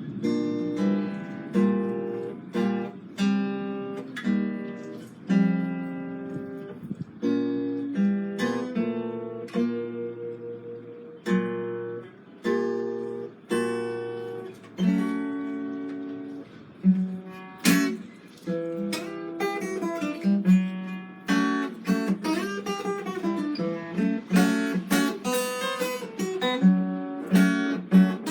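Acoustic guitar being played: strummed chords about once a second, then a busier passage of quicker chords and picked notes in the second half.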